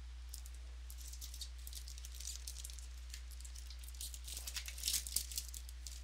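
Trading cards handled and flipped through by hand: a run of light crackling and rustling that grows denser and louder about four to five seconds in.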